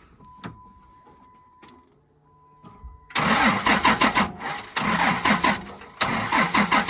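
Starter cranking the engine of an old Dodge D-100 pickup in three spells with short pauses between, the engine turning over but not catching: a no-start that the owners blame on an electrical fault.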